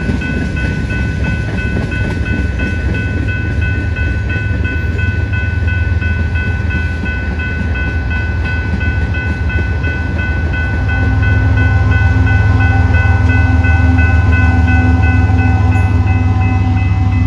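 Freight cars rolling past with a steady low rumble, under the continuous ringing of a grade-crossing bell. About eleven seconds in, a BNSF GE ES44C4 mid-train distributed-power locomotive's diesel engine comes by and the rumble grows louder.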